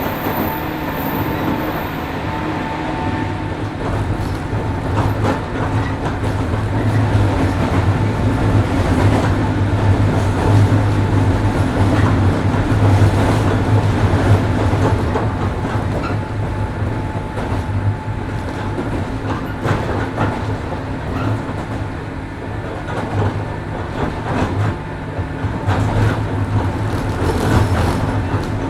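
103 series 1500-subseries electric train running, heard from inside the passenger car: a steady low hum with rumble from the wheels on the rails, and the wheels clicking over rail joints now and then. It grows a little louder in the middle and eases off again.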